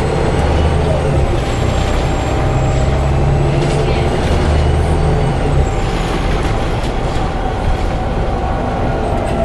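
Interior of a Volvo B7TL double-decker bus on the move, its engine droning, with a strange steady howling tone running over it. The engine drone eases a little just past halfway while the howl carries on unchanged.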